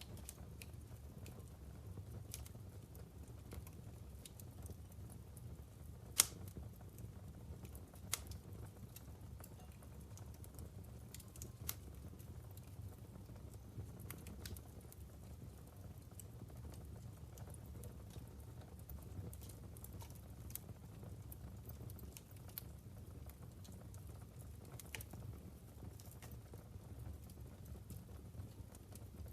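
Logs burning in a wood fireplace, crackling with scattered pops, the sharpest about six seconds in.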